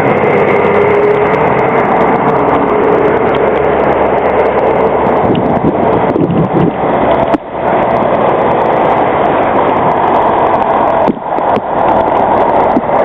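Loud, steady vehicle traffic noise with the drone of a large engine, dropping slightly in pitch over the first few seconds and followed later by a higher whine.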